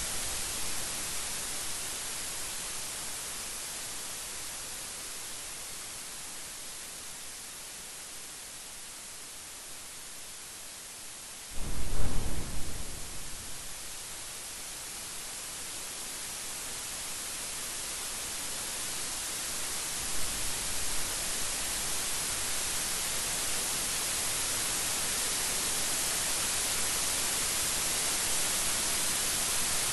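Steady, heavy rain hiss that eases a little and then builds again. About a third of the way in, a sudden loud thunderclap booms for about two seconds. A couple of fainter low rumbles follow a little past the middle.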